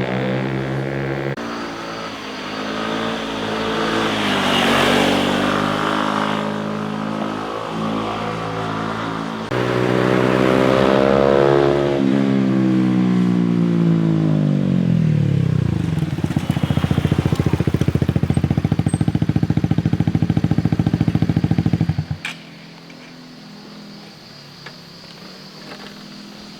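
Motorcycles passing one after another, their engines revving and changing gear with the pitch climbing and falling. Near the end a loud engine runs with a fast pulsing beat, then cuts off suddenly, leaving quieter background sound.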